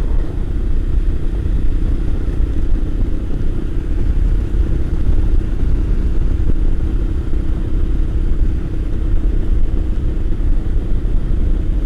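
Royal Enfield Himalayan's single-cylinder engine running steadily at cruising speed, with heavy, steady wind rumble over the rider's helmet microphone.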